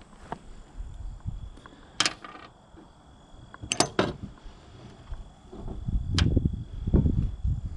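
Metal parts and hand tools clinking during finish-mower spindle and bearing work: a sharp clink about two seconds in, a quick cluster near four seconds and another near six. Low rumbling handling noise rises over the last two seconds.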